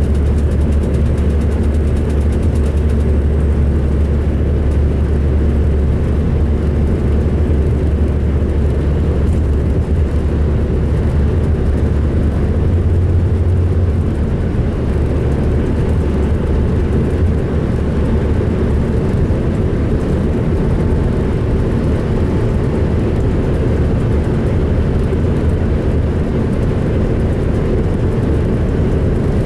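2005 MCI D4500 coach's diesel engine running with a steady, heavy low rumble, a sound its rider calls rough.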